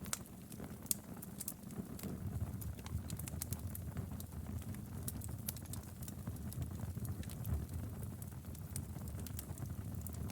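Wood fire crackling in a fireplace: irregular sharp snaps and pops, several a second, over a low steady rumble of the burning logs.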